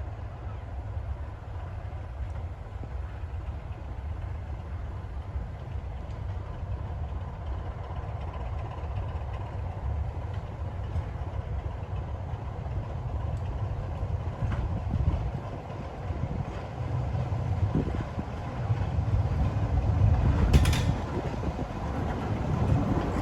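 Heritage diesel locomotive engine running with a steady low rumble that grows louder toward the end, with a sharp click near the end.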